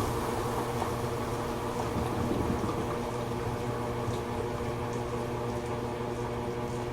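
Toshiba AW-42SEE4 fully automatic washing machine with water running and churning in its tub over a steady low hum.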